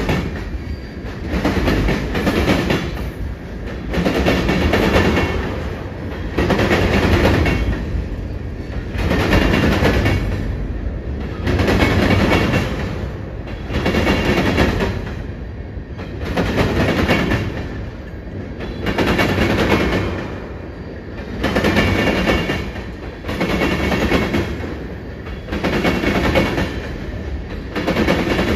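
Freight cars of a BNSF manifest train rolling by, their steel wheels clattering over a double diamond crossing. A loud burst of clatter comes about every two and a half seconds as each car goes over, with a steady low rumble between.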